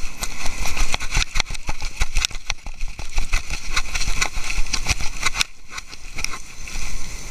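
Irregular clicking, knocking and rubbing over a low rumble: handling noise from an action camera worn by a moving pet.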